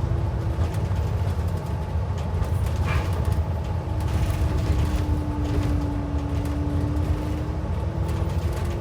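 Interior of a moving transit bus: a steady low drivetrain rumble with a held whine that sags a little in pitch about halfway through and then rises back.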